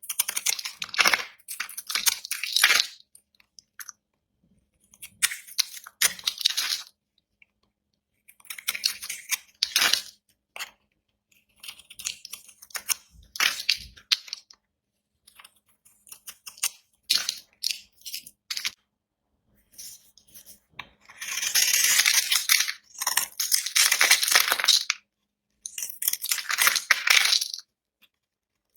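Dry, coloured bar soap being cut: crisp, crackling scrapes as the blade goes through the hard soap, in about seven strokes of one to four seconds each with silent pauses between, the longest near the end.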